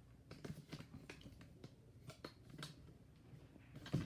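Faint handling noise from a camera being repositioned on its mount: scattered small clicks and taps, with a louder knock near the end.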